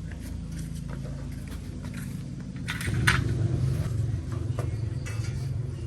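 A car engine running steadily, with a few sharp clicks about three seconds in, after which the engine sound grows louder.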